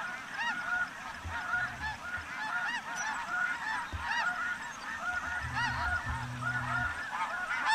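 Snow geese calling: a dense chorus of many overlapping short, high, yelping calls.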